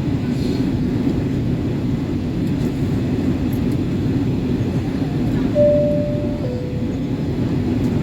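Steady low roar inside an Airbus A320's cabin on approach. About five and a half seconds in, the cabin chime sounds two notes, high then low.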